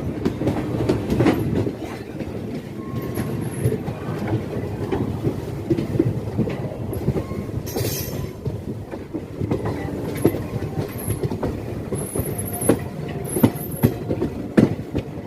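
Passenger express train heard from on board, with a steady rumble of the coach running on the rails, many irregular clicks and knocks of wheels over rail joints, and a few brief high-pitched wheel squeals, the main ones about halfway through and near the end.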